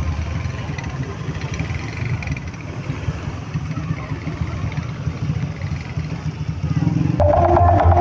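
A lull in the loud sound-system music, filled with a steady engine rumble like idling vehicles. Bass-heavy music starts again about seven seconds in.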